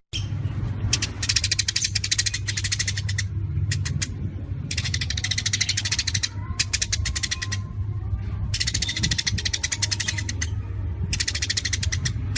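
Recorded songbird 'tembakan' song: bursts of rapid, sharp, evenly repeated high notes, each burst lasting one to two seconds with short pauses between, over a steady low hum.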